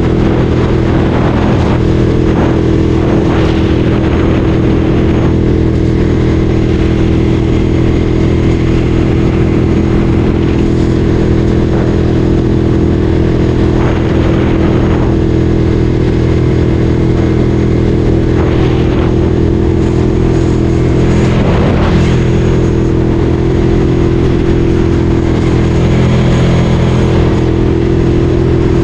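Ducati Streetfighter 848's L-twin engine running at a steady, nearly unchanging engine speed.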